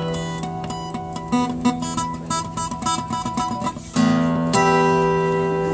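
Acoustic guitar playing alone: a run of quick picked notes, then a chord struck about four seconds in and left to ring.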